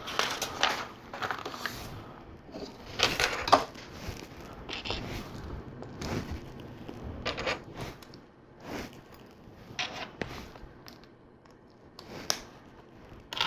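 Plastic LEGO pieces handled, rattling, scraping and clicking together in short, irregular bursts as bricks are picked out and pressed into place.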